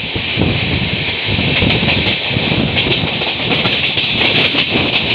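Passenger express train running at speed, heard from an open coach door: a steady rolling rumble under a loud rushing hiss, with the wheels clattering over rail joints and points.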